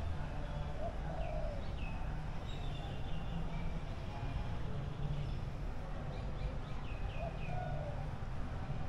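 Birds chirping in short runs of high notes, a few times near the start and again past the middle, over a steady low background rumble.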